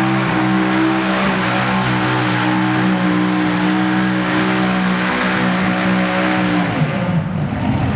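Modified pulling tractor's engine running flat out under load, a loud steady high-revving drone, then falling in pitch about seven seconds in as the throttle comes off at the end of the pull.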